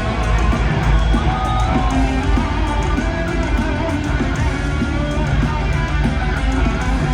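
Electric guitar playing a heavy metal lead solo over a full band, with held notes and string bends.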